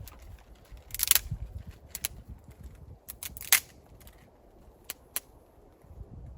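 Irregular sharp snaps and cracks, about half a dozen, the loudest about a second in and again past the middle, over a low rumble.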